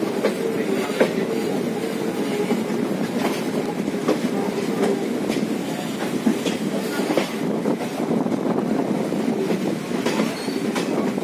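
Passenger train running, heard from a coach window: a steady rumble of wheels on rail with scattered clicks from the rail joints and a faint steady hum.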